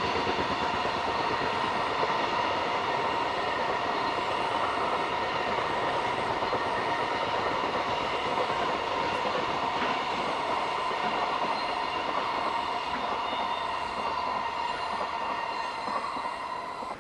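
Freight train rolling past on a curve, the wagons' wheels running on the rails with a steady high squeal.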